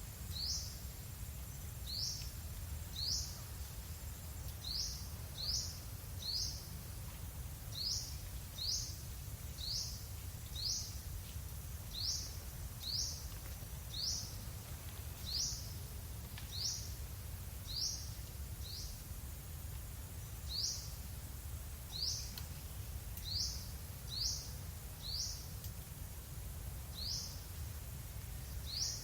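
A single bird repeating the same short, rising chirp about once a second, over a steady low rumble.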